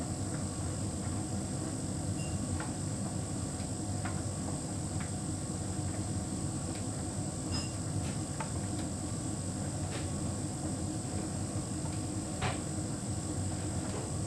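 Hotpoint heat pump tumble dryer running with a big load: a steady hum from its compressor and fan with a faint high whine, and occasional light clicks as the load turns in the drum.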